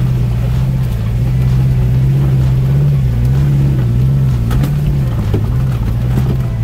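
Off-road 4x4's engine running under load as it drives through a flooded, muddy track, its revs rising and falling, with water and mud sloshing under the tyres.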